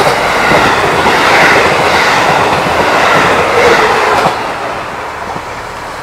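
Diesel train running past close by on the station track, wheels clattering over the rail joints; loud at once, easing off after about four seconds.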